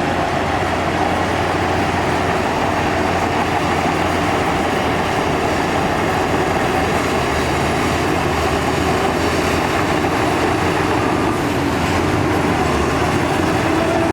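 Shantui DH17C3 crawler bulldozer at work, its diesel engine running steadily at a constant loud level.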